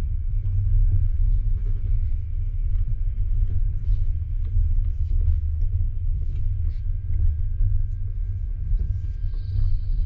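Double-deck passenger train coach running on the rails, heard from inside at the window: a steady, heavy low rumble with faint scattered clicks. A thin high squeal comes in near the end.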